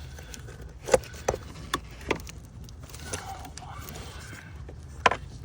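Sharp plastic clicks and taps from hands and a pick working a quick-connect clip on an EVAP line, about five in all, the loudest about a second in and near the end, over a low steady hum.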